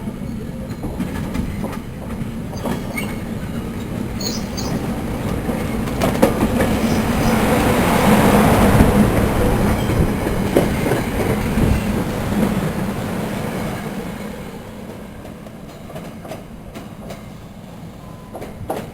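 A train passing on the track, its wheels clicking over the rail joints. The sound builds to its loudest about eight to nine seconds in, then fades.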